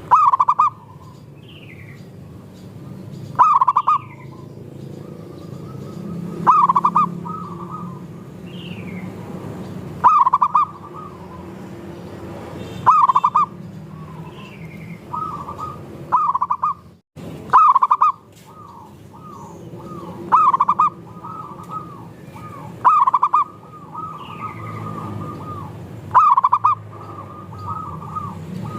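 Zebra doves (perkutut) cooing: a loud cooing phrase about every three seconds, with softer coos from several other doves in between, and faint short high chirps. The sound drops out for a split second just past the middle.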